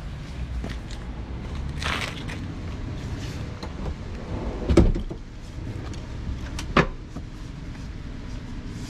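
Knocks and clicks of things being handled inside a parked minivan's cabin over a steady low rumble, with a loud thump about five seconds in and a sharp click about two seconds later.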